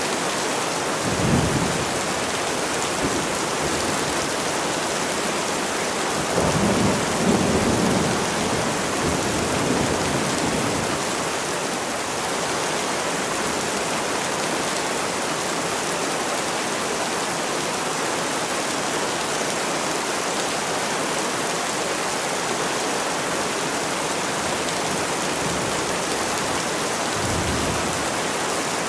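Steady heavy rain with low rumbles of thunder: a short one about a second in, a longer, louder roll from about six to ten seconds in, and another short one near the end.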